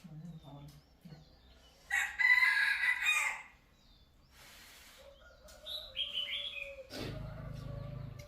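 A rooster crowing once, about two seconds in, for about a second and a half. Near the end a low steady hum starts.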